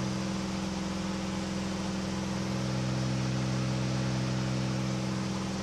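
KR2 homebuilt airplane's piston engine and propeller droning steadily in cruise flight, heard from inside the cockpit. The lower tone swells slightly in the middle. The engine is running smoothly.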